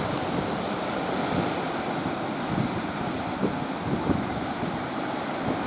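Ocean surf and big waves rushing steadily, with wind buffeting the microphone.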